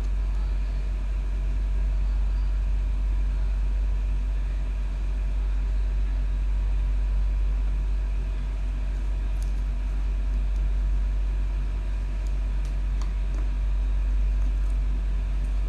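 Steady low rumble with a few faint light ticks.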